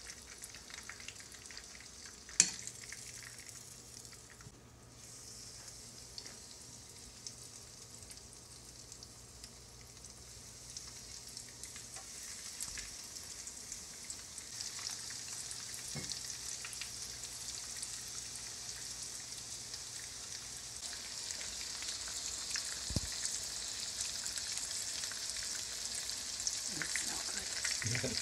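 Coconut-breaded butterflied shrimp frying in shallow oil in a skillet: a steady high sizzle that grows louder as a fresh batch is laid into the pan. One sharp click about two seconds in.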